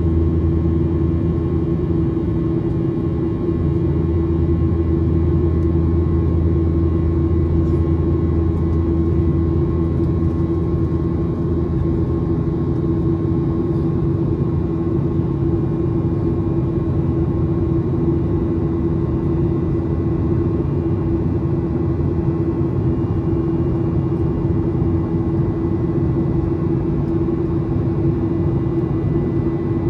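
Steady drone of engine and airflow noise inside the cabin of a Boeing 737-800 with CFM56-7B engines, with a deep hum and a few faint steady tones above it. The deepest hum eases a little about twelve seconds in.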